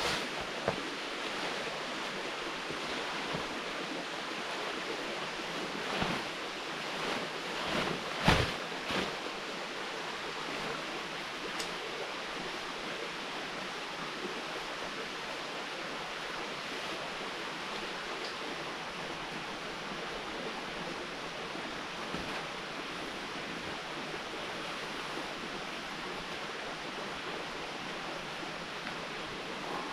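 A steady rushing outdoor noise, with a few short knocks and rustles about six to nine seconds in.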